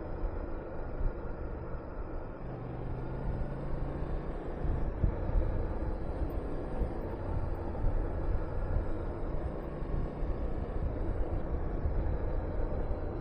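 Honda VTR250's V-twin engine running while riding, a steady low rumble under wind rushing over the microphone, with the engine note holding steady for a couple of seconds early on.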